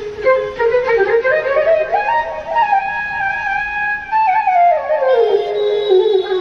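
Roland FA-06 keyboard workstation playing a single-line melody on a flute voice, stepping up in pitch and then back down.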